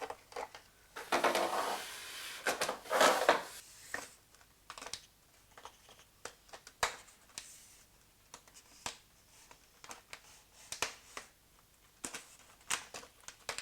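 Handling noise of a flooring inlay strip being fed into the stair nosing's channel: a rustling scrape from about a second in, then scattered light clicks and taps.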